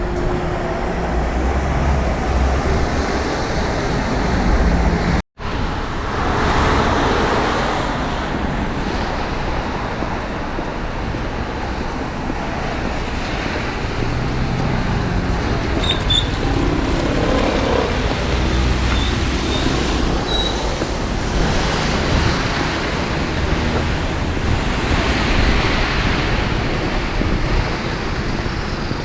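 Steady city road traffic, with vehicles swelling past now and then. The sound drops out for a split second about five seconds in.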